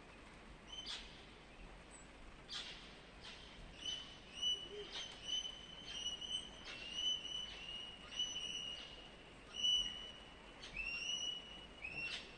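A parrot calling in a run of short, repeated notes, each starting sharply and holding one level pitch, about two a second, after a few single sharp chirps.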